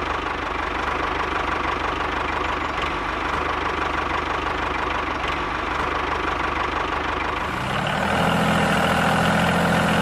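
An engine running steadily. About eight seconds in it grows slightly louder and takes on a higher-pitched hum.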